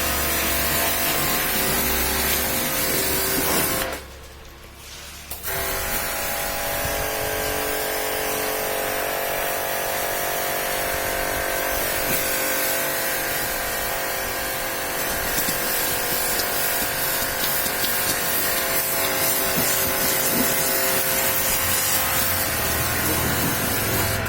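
Electric pressure washer running and spraying: a steady motor whine under a loud hiss of water. It cuts out for about a second and a half around four seconds in, then starts again.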